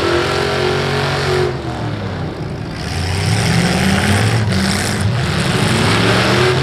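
V8 demolition derby car engines running and revving, rising and falling in pitch. They ease off for about a second near the middle, then pick up again.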